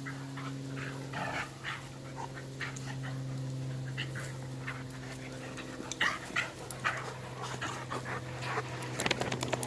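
Two dogs play-wrestling: panting, scuffling and short bursts of play noise, over a steady low hum.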